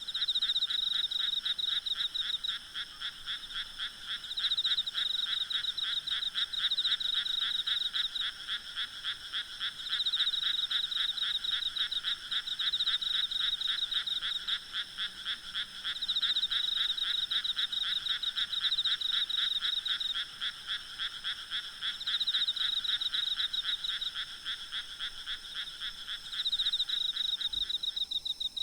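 Night chorus of frogs calling in rapid pulsing trills that swell and ease every few seconds, over a faint steady high insect drone. Near the end the lower-pitched part of the chorus stops while the higher trilling goes on.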